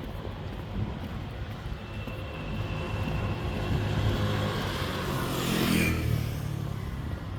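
A motor vehicle passing close by over steady street traffic rumble: its engine and tyre noise swells for a few seconds, peaks about six seconds in, then drops away quickly.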